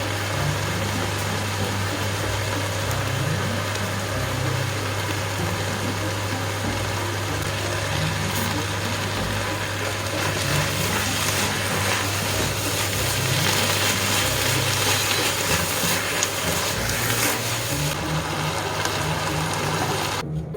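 Food frying in a pan, a steady sizzle with crackling that grows busier about halfway through, over a constant low hum.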